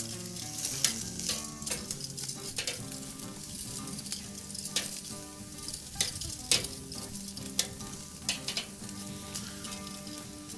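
Bacon strips sizzling and crackling directly over hot charcoal on a kettle grill as they crisp, with occasional sharp pops and a few louder ones near the middle.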